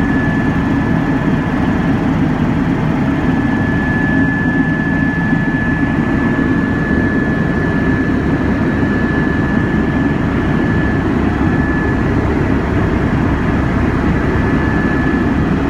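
AStar (AS350) helicopter in flight, heard from inside the cabin: a steady, loud rush of rotor and engine noise with a constant high turbine whine over it.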